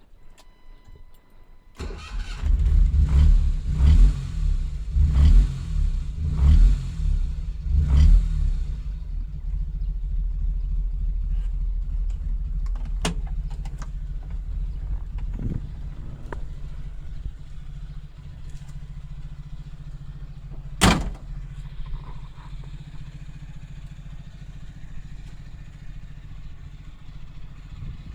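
Honda Life 360 engine starting and catching, its revs rising and falling in several surges about a second apart, then settling into a steady idle. Starting well, its carburettor freshly adjusted. A single sharp click comes about 21 seconds in.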